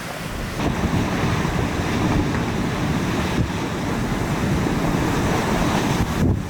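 Strong nor'easter wind blowing across the microphone with storm surf, a steady, heavy rushing roar that drops out briefly near the end.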